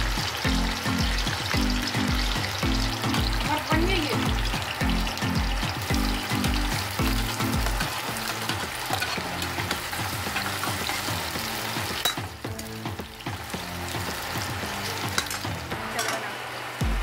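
Sliced onions and vegetables sizzling in hot oil in a steel kadhai, with a metal spoon clinking and scraping against the pan as they are stirred. Background music with a steady low beat plays under it for about the first half.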